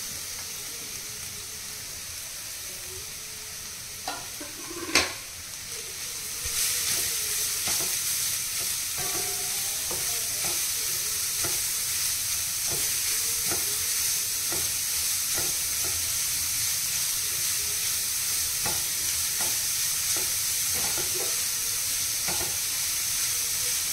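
Grated carrots frying in ghee on a low flame, with a spatula stirring and scraping them around a metal pan. A sharp knock comes about five seconds in. Soon after, the sizzle grows louder and stays steady under irregular scraping strokes.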